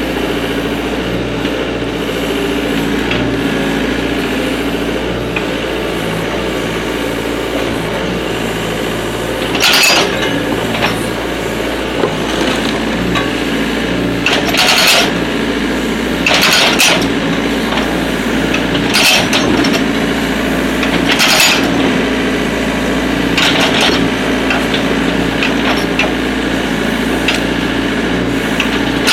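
Excavator's diesel engine running steadily, with several short bursts of hydraulic breaker noise from about ten seconds in, every two to three seconds.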